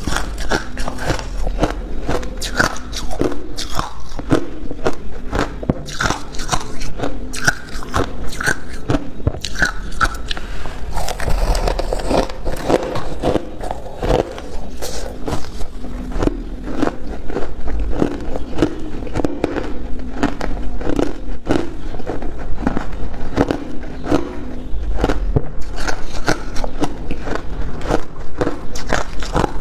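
A person biting and chewing ice, a dense run of sharp crunches and cracks.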